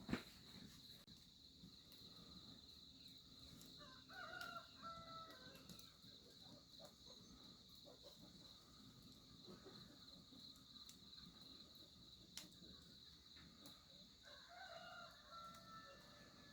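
A rooster crowing faintly, twice: once about four seconds in and again near the end, over a steady high-pitched hum.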